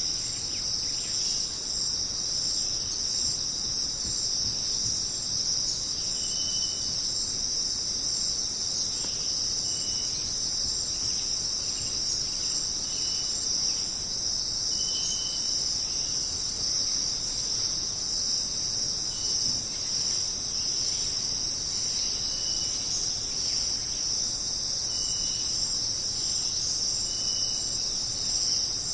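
Dense, steady, high-pitched insect chorus of crickets, with brief pitched chirps every couple of seconds beneath it.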